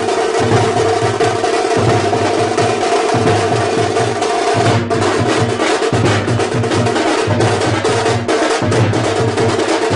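Loud drum-driven music: fast rolling snare-like percussion and pulsing bass-drum beats over a steady held tone.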